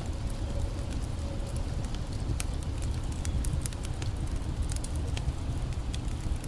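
Wood campfire crackling with scattered sharp pops, over the steady low rush of a creek.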